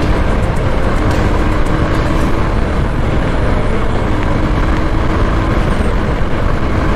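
Honda X-Blade's single-cylinder engine running at steady cruising speed, heavily covered by wind rush and buffeting on the helmet-mounted microphone.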